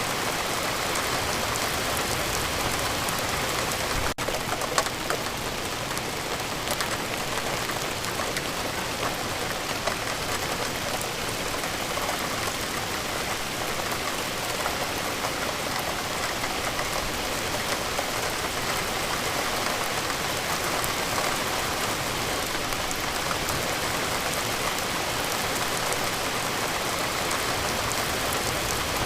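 Steady rain falling, an even hiss with individual drops pattering on a surface. It breaks for an instant about four seconds in.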